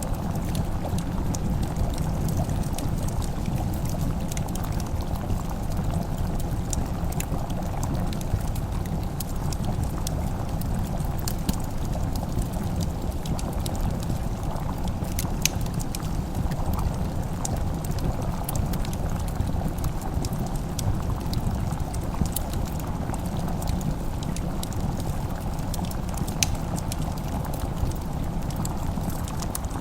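Wood fire crackling: scattered sharp snaps and pops over a steady low rumble.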